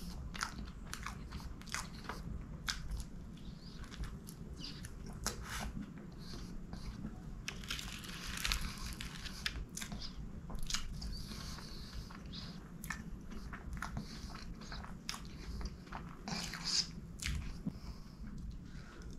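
Close-miked chewing of soft chocolate gateau, sponge layered with chocolate cream, with many short wet mouth clicks scattered irregularly throughout.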